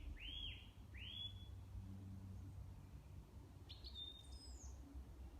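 Faint bird calls: a few quick arching chirps in the first second and a half, then a higher, more complex call about four seconds in, over a low steady rumble.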